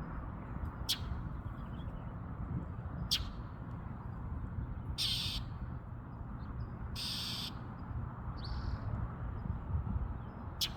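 Small bird calling: sharp, short high chips at intervals and two longer raspy, hissy calls of about half a second each near the middle, over a low steady rumble.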